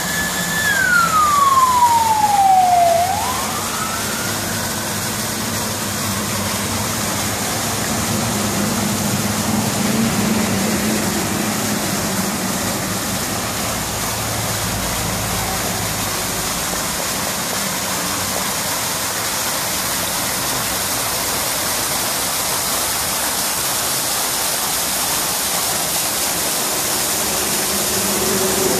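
Steady rush of water pouring over an artificial stone garden waterfall. In the first three seconds a loud, siren-like tone glides down in pitch and then swings back up.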